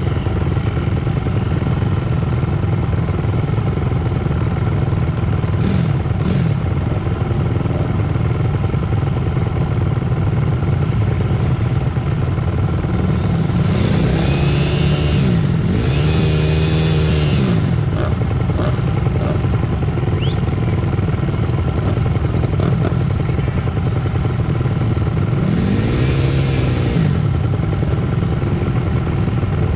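Pit bike engines running during a race, a continuous drone, with bikes revving and passing close so that the engine pitch rises and falls twice in the middle and once more near the end.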